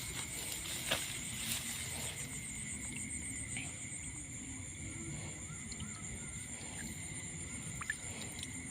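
Steady high-pitched insect trilling, with a low background rumble and a few faint clicks.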